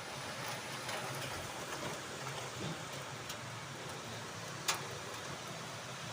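Rain falling steadily, a continuous hiss, with a few sharp taps of drops striking something close by, one loud tap about three-quarters of the way through.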